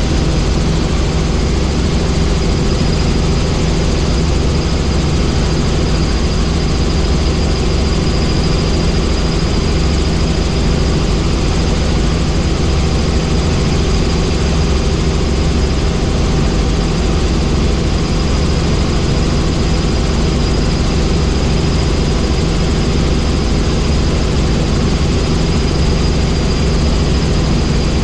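Helicopter in flight: steady engine and rotor noise, a dense low drone with a thin high whine above it, unchanging throughout.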